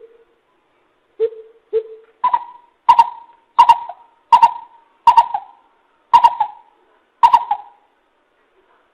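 Coucal (bìm bịp) calling: a series of hollow hoots, two lower notes followed by about seven higher ones spaced well under a second apart.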